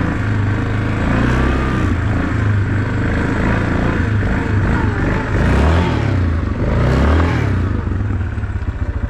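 Yamaha Wolverine 450 ATV's single-cylinder engine running while riding through snow, its pitch rising and falling with the throttle, then settling to a steady idle near the end as the machine stops.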